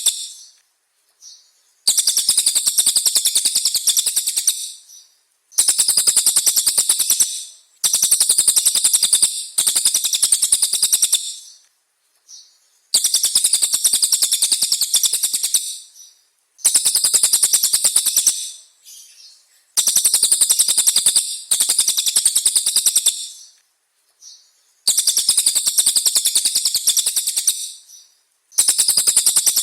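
A songbird singing a string of high, fast-pulsed trilled phrases, each two to three seconds long, with pauses of about a second between them, played as a masteran tutor track for training cage birds.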